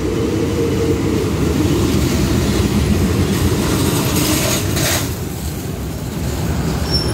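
Thai State Railway diesel railcar train pulling in along the platform at low speed, its engine and running gear giving a steady low rumble. A brief hiss about five seconds in.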